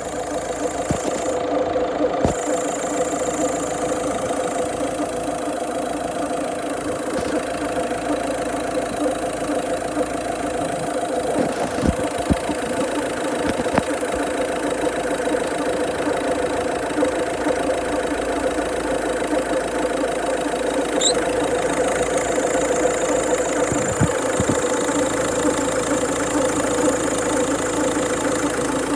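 Engine idling steadily, with a few sharp clicks, making a weird noise that the owner cannot trace: the pulleys, tensioner and belt have been checked and look fine.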